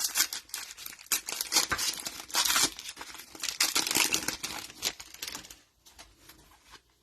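A plastic trading-card pack wrapper crinkling and tearing as the pack is ripped open. The crackling bursts go on for about five seconds, then die down.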